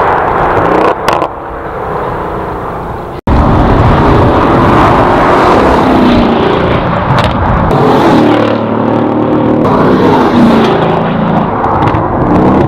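2017 Mercedes-AMG GLE63 Coupe's twin-turbo V8 through an Armytrix valved exhaust. The engine note falls away, then after an abrupt cut it is loud under acceleration, its pitch climbing several times in a row.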